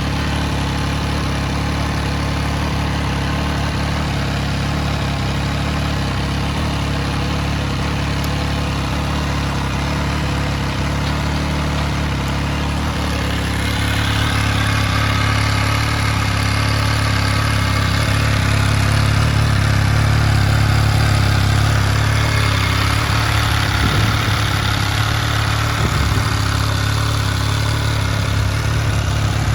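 MV Agusta Rivale 800's three-cylinder engine idling steadily through an Arrow carbon aftermarket silencer. The idle grows a little louder and fuller about halfway through.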